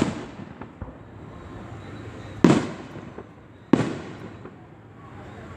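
Aerial fireworks bursting overhead: three sharp bangs, each trailing off in an echoing rumble, the last two just over a second apart.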